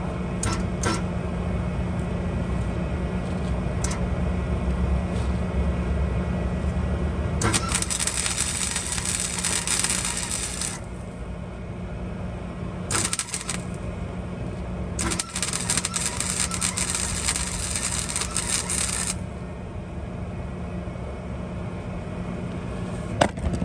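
MIG welder laying weld on exhaust pipe: three spells of crackling arc, about three seconds, under a second, and four seconds long, over a steady low hum.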